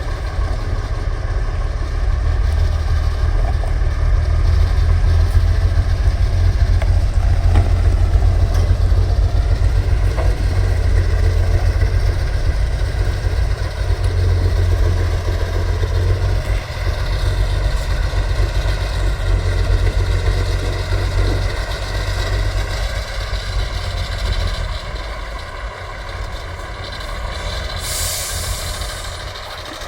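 Heavy off-road truck's diesel engine running with a deep, steady rumble that grows quieter over the last few seconds. A short hiss comes near the end.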